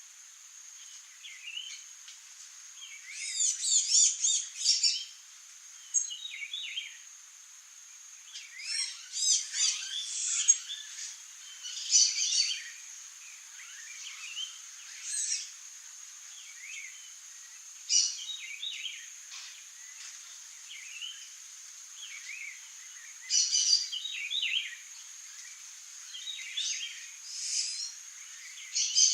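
Songbirds chirping and singing in short bursts of quick notes and trills every few seconds, over a steady high-pitched tone.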